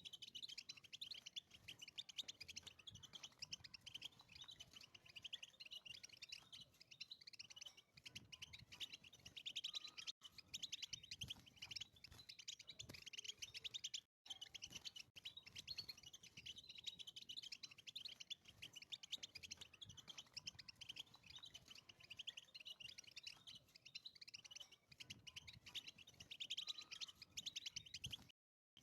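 European goldfinch singing a long, faint, fast twittering song of rapid chirps and trills, broken by a couple of brief cut-outs.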